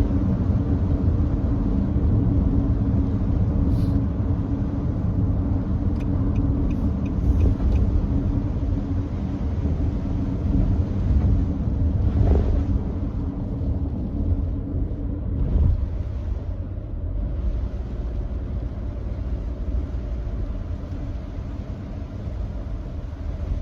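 Nissan Note e-POWER driving at steady speed on a wet expressway: a continuous low road rumble with an even hiss of tyres on the wet road, and a brief swell about halfway through.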